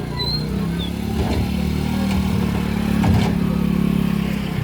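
Motorboat engine running steadily and growing louder, with a couple of light knocks.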